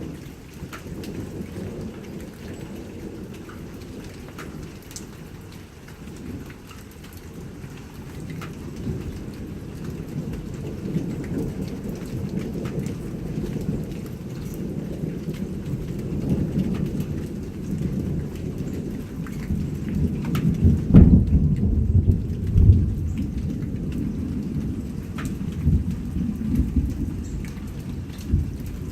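Rain pattering down while thunder rolls in a long, low rumble, swelling gradually and peaking with a couple of sharp, loud cracks about two-thirds of the way through before rumbling on.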